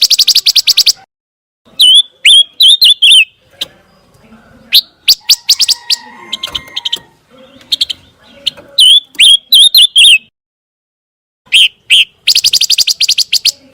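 Pancawarna bird singing: a fast trill of sharp notes at the start and again near the end, with short chirps that rise and fall in pitch between them.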